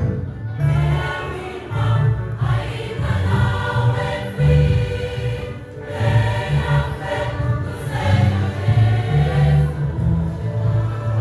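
A choir singing a gospel song with band accompaniment and a strong bass line.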